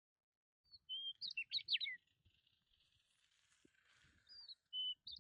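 Bird calls: short, high chirps with quick downward-sliding notes, a series about a second in and a shorter one near the end.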